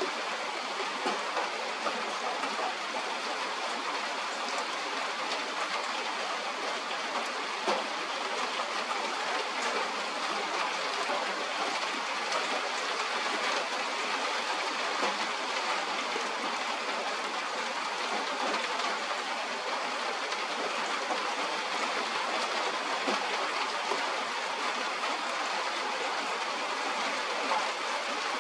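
Steady rain falling, an even hiss with a few faint scattered taps.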